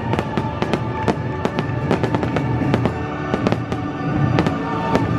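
Fireworks bursting in rapid succession, several sharp bangs and crackles a second, over the fireworks show's accompanying music with held tones.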